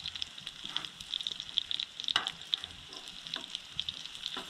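Fried eggs and a meat patty sizzling and crackling in a frying pan, with a metal spatula scraping the pan a few times as the food is lifted.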